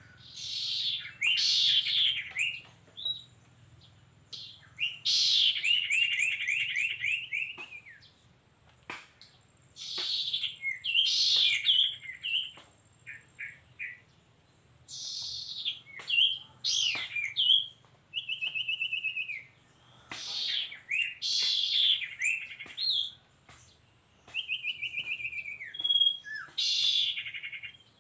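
Burung sirtu songbird calls: bursts of sharp, high chirps and quick falling trills, repeated in phrases about every five seconds.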